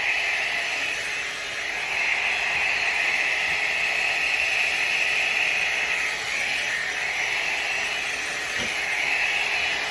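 ANWA 1000W hair dryer brush running on its high setting, blowing steadily as it is brushed through damp hair, with small swells in the airflow noise.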